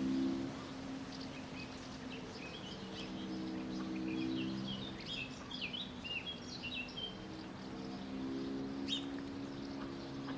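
A bird calling in many short, high squeaky chirps, some dipping and rising, busiest in the middle. A steady low hum sounds underneath and fades in and out.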